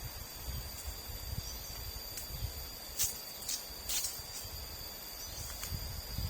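Insects chirring steadily in high, unbroken tones, with a few short rustling or scraping noises about three and four seconds in.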